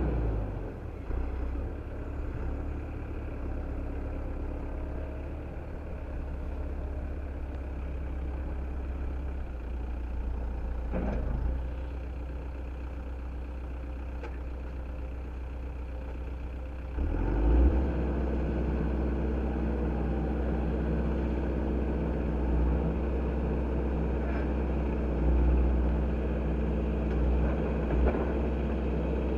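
Tractor engine running steadily while working at moving rocks, with a short clank near the middle. About two-thirds of the way through the engine note gets louder and stays louder.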